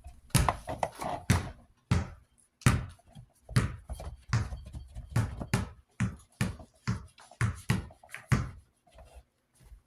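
Irregular series of knocks and clatters, about two to three a second, from hard objects being handled and set down on a work surface.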